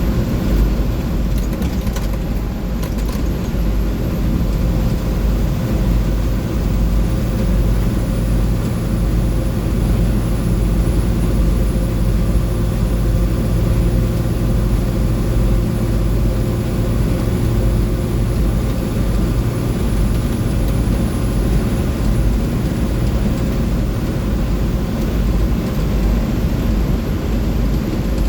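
A 2004 Blue Bird school bus cruising at steady highway speed, heard from inside: its International DT466E inline-six turbodiesel runs evenly under a deep road and wind drone. A few short clicks or rattles come about two seconds in.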